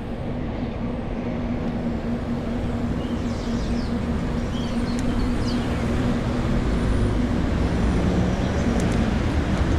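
City street traffic: a steady vehicle engine hum over a loud rumble of road noise, growing a little louder toward the end.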